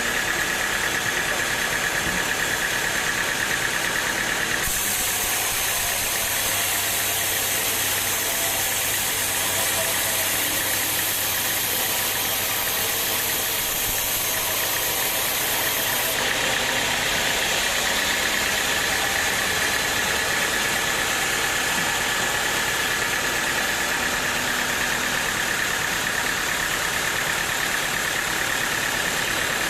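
Sawmill machinery running steadily. About five seconds in its sound changes, a steady high whine giving way to a higher hiss over a low hum, and it changes back about sixteen seconds in.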